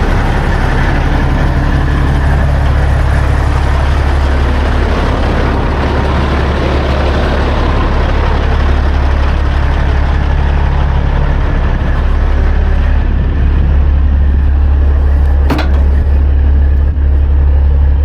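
Semi truck's diesel engine idling steadily under a constant hiss of compressed air from an air hose filling a tire. A single sharp click about fifteen and a half seconds in.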